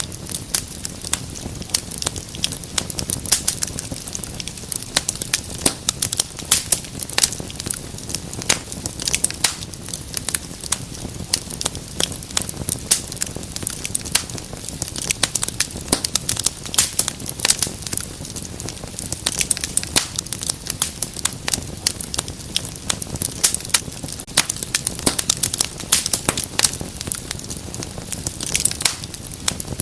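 Wood fire burning in a fireplace, crackling and popping irregularly several times a second over a steady low rumble of flames.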